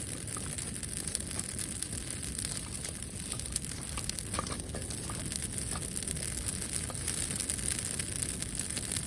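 Wood bonfire crackling, with frequent small irregular pops over a steady hiss.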